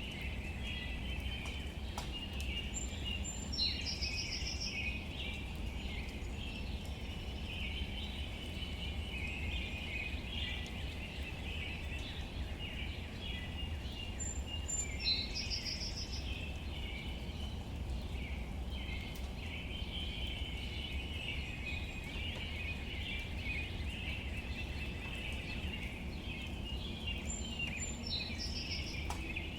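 Outdoor ambience: a songbird sings the same short song three times, about twelve seconds apart, each time a high whistle followed by a fast trill. Under it runs a steady chorus of high chirping and a low rumble.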